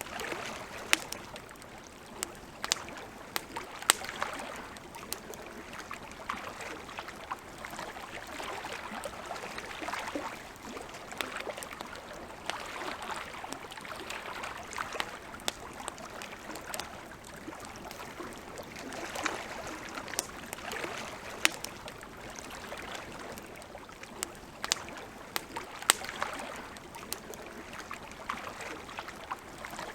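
Campfire crackling, with irregular sharp pops every second or two, over a soft wash of lake water that swells and fades every few seconds.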